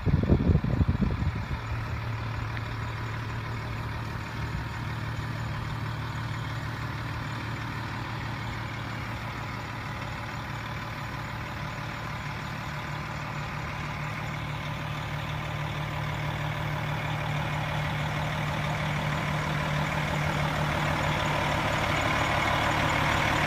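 A 2007 KME rescue fire engine's diesel engine idling steadily, growing gradually louder over the last several seconds.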